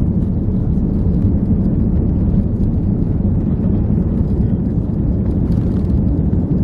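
Airbus A340-300's four CFM56 jet engines running, heard as a steady, loud low rumble.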